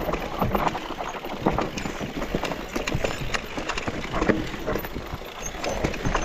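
Mountain bike rattling over a rough trail: tyres on stones and roots, with dense irregular knocks and clatter from the frame and chain.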